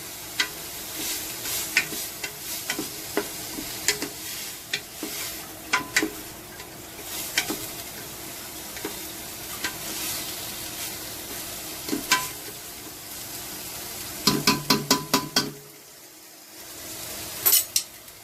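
Chopped onions, shallots and garlic sizzling in oil in a pot as they are stirred, the utensil clicking against the pot now and then. A little before the end comes a quick run of about eight taps on the pot.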